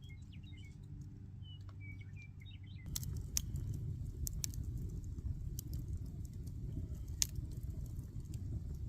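Small birds chirping faintly over a low steady rumble. About three seconds in, this changes abruptly to a louder low rumbling noise with scattered sharp clicks, two of them standing out.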